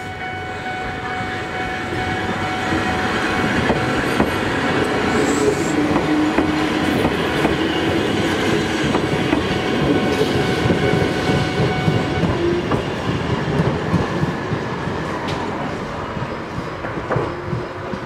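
Eizan Electric Railway electric train running on the track, wheels clattering over the rail joints, loudest in the middle. A steady high tone runs beneath until about twelve seconds in.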